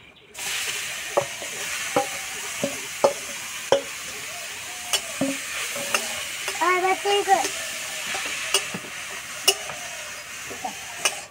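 Grated carrot sizzling in hot vegetable oil in a steel kadai, the sizzle starting as the carrot goes in. A metal spatula stirs it, clicking and scraping sharply against the pan again and again.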